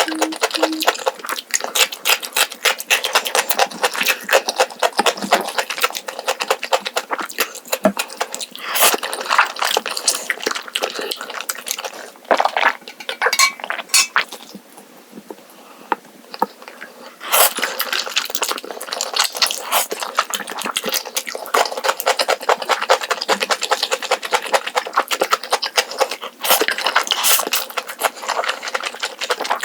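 Close-miked eating: continual wet chewing, crackling and smacking of a meal of black-bean instant noodles, fried dumplings and cubed radish kimchi, with a quieter pause about fifteen seconds in.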